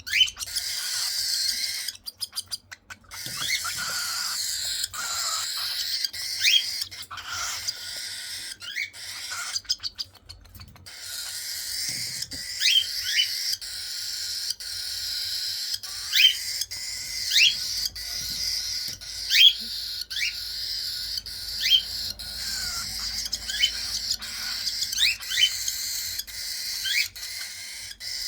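Baby cockatiel chicks begging during hand-feeding: a steady raspy hiss with short rising squeaks repeated about once a second.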